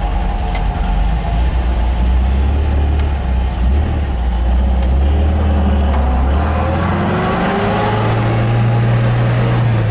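1967 MGB GT's 1.8-litre four-cylinder engine pulling away and accelerating, its pitch rising steadily over the second half, then dropping at a gear change right at the end.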